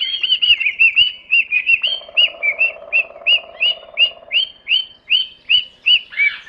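Parrot calling: a rapid, even series of short chirping notes, about three a second.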